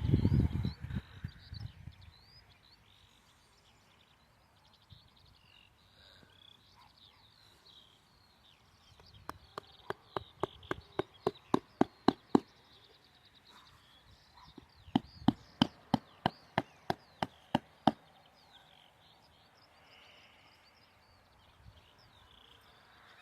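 Tent pegs being hammered into the ground: two runs of sharp, quick knocks, about four a second, a few seconds apart. Faint birdsong chirps in the background.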